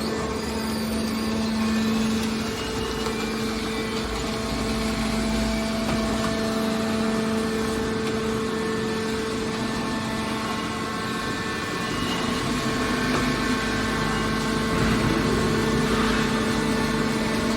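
Hydraulic scrap copper baler running steadily, its motor and pump giving a constant hum over mechanical noise.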